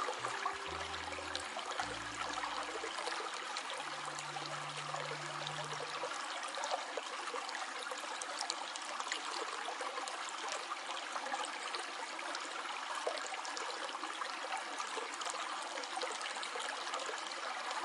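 Water trickling and flowing steadily, as from a forest stream. Low music notes play under it for the first few seconds, then stop.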